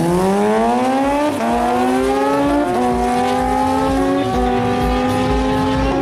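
Sport motorcycle engines revving hard as two bikes launch off a drag strip start line and accelerate away. The pitch climbs steeply, then steps at each upshift, three times.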